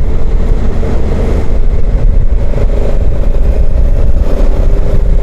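Honda CRF1100 Africa Twin's parallel-twin engine running steadily while riding at road speed, under a heavy, even low rumble.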